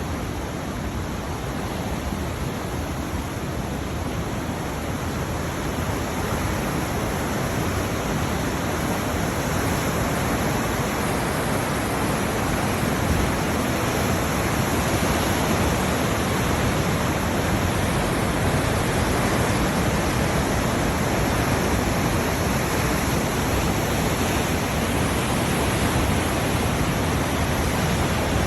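Sea surf: a steady, even rush of breaking waves with no distinct separate crashes.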